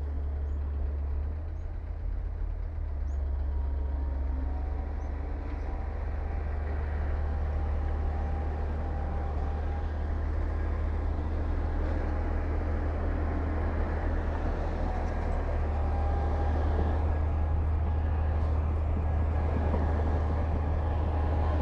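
Diesel engine of heavy earthmoving machinery running steadily with a deep low hum, growing slightly louder near the end.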